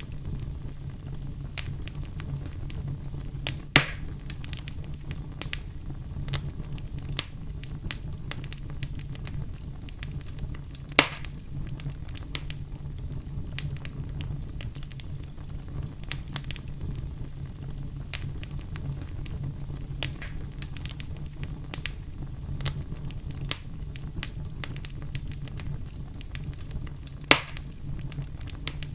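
Wood fire in a fireplace crackling: frequent small snaps over a steady low rumble, with three louder pops, about four seconds in, about eleven seconds in and near the end.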